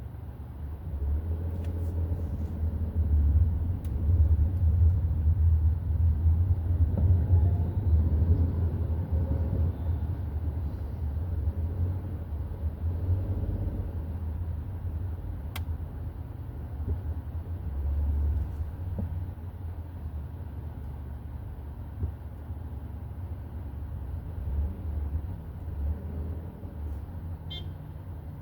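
Hyundai i30 N Line on the move: a steady low rumble of engine and road noise. It grows louder about a second in and eases off after about halfway.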